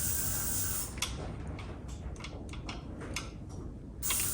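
A run of light, irregular clicks and taps, about ten in three seconds, as small brake parts are handled and fitted into place.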